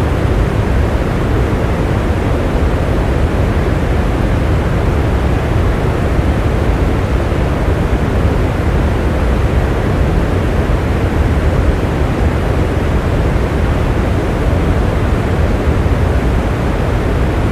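Steady rain: an even, unbroken hiss weighted toward the low end, with no separate drops or thunder standing out.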